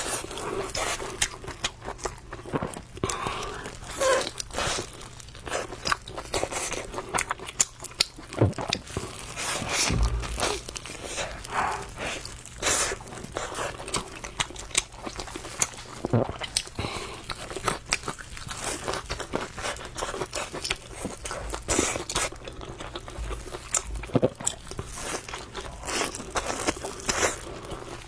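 Close-miked eating of spicy noodles (luosifen): irregular chewing and crunching, mouth noises coming thick and fast.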